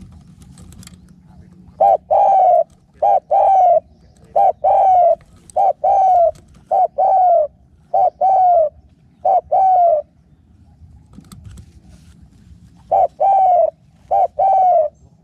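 Spotted dove cooing loudly and close: a run of paired coos, each a short note followed by a longer falling one, from about two seconds in until about ten seconds in, then two more pairs near the end.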